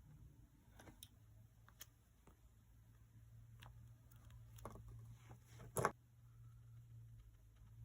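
Scattered light clicks and taps of small stationery being handled on a desk, with one sharper knock about six seconds in, over a faint steady low hum.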